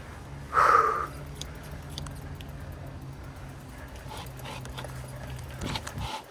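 A dog barks once, sharply, about half a second in, over a steady low hum that cuts off shortly before the end, with a few light clicks.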